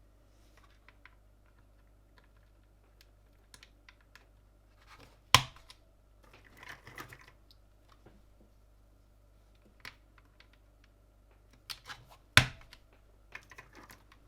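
Plastic parts of a Gamakay LK67 mechanical keyboard being handled during assembly: scattered light clicks and taps, with two sharp, loud snaps about five and twelve seconds in.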